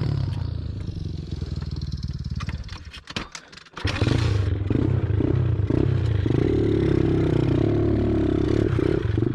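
Pit bike engine running under a rider, dropping away almost to nothing with a few clicks about three seconds in, then coming back suddenly louder and holding a steady note to the end.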